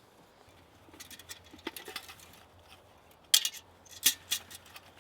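Camp cooking gear being handled and set out: a run of small clinks and knocks, with two sharper clinks about three and four seconds in.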